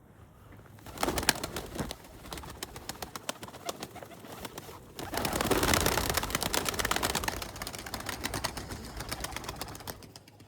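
Pigeons, with bursts of rapid clicking and rustling: a short burst about a second in and a louder, longer one from about five to eight seconds in.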